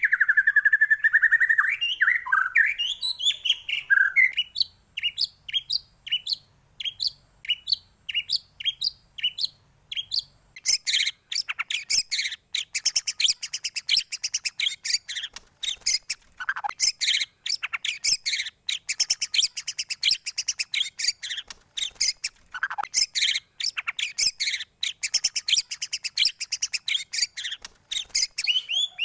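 White-rumped shama (murai batu) song. It opens with a trill, then gives a run of repeated sweeping notes about two a second. From about ten seconds in it breaks into fast, continuous, varied chattering song.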